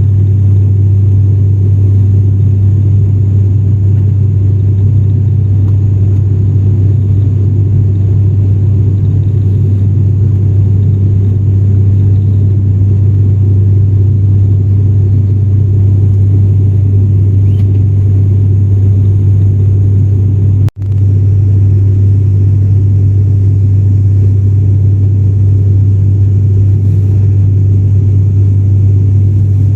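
ATR 72 turboprop's engines and propellers heard inside the passenger cabin: a loud, steady low drone. The sound drops out for an instant about two-thirds of the way through.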